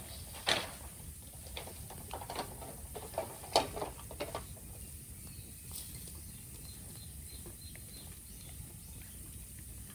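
Bonfire of raw bamboo crackling, with sharp irregular pops and snaps that come thickest in the first half and thin out after it.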